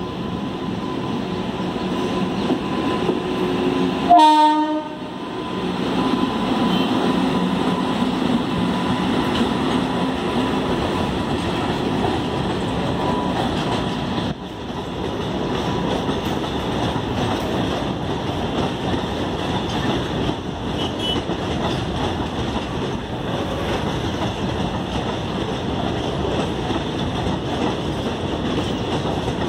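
Goods train of open-top freight wagons rolling past, a steady rumble and clatter of wheels on the rails. A short, loud horn blast sounds about four seconds in.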